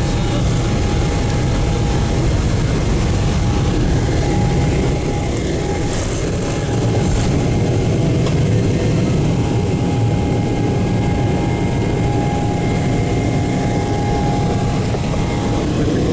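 Boeing 777-300ER's GE90 turbofan engines at takeoff thrust: a loud, steady jet roar with a constant whine running through it.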